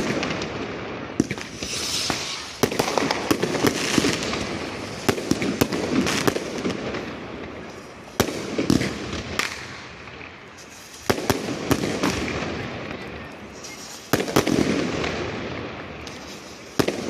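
Consumer fireworks from The Hawk Fireworks being fired: a string of sharp bangs every second or two, with bursts of crackling and hissing between them as the shots explode overhead.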